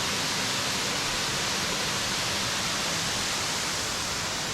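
Steady, loud rushing of a waterfall pouring into its pool.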